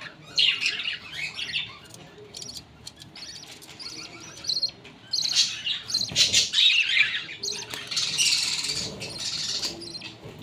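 Budgerigars chirping and chattering: many short, quick high chirps, busier and louder in the second half.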